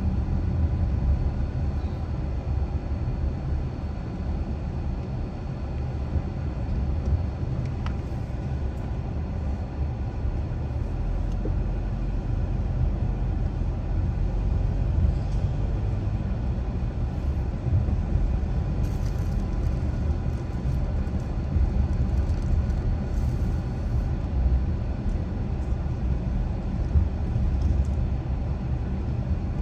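A car being driven at steady speed: a continuous low rumble of engine and tyres on the road.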